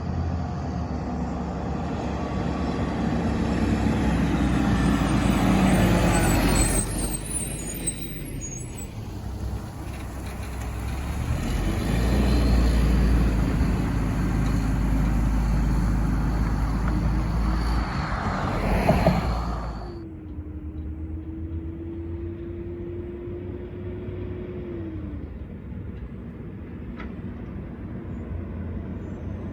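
Diesel garbage trucks driving past, their engines swelling loud twice, with a short sharp hiss of air brakes about nineteen seconds in. After that the engine noise is quieter, and a steady tone holds for about five seconds before falling away.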